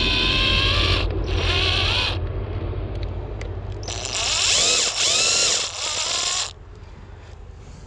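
Power drill running in three bursts, its motor whine rising and falling in pitch with the trigger, as it works screws out of a discarded electric fan.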